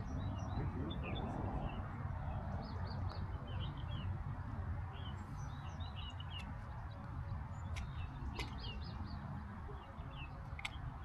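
Small birds chirping in short, scattered calls over a steady low rumble, with a few sharp clicks in the second half.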